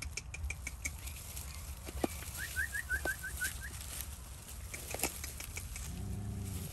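Small birds chirping in two quick runs of short, high notes, with a few sharp clicks over a steady low rumble. A rooster starts to crow near the end.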